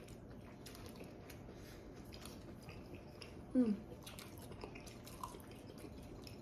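People chewing and eating a buttery seafood boil close to the microphone: wet mouth clicks and bites throughout, with a short hummed "mm" about three and a half seconds in.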